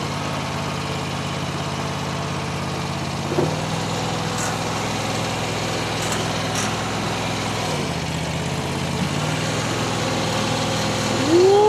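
Starbox SV480 mini skid steer's engine running steadily while it works its lift, the engine note shifting about three and a half seconds in and again around eight seconds. Near the end a louder, higher tone rises and holds for about a second.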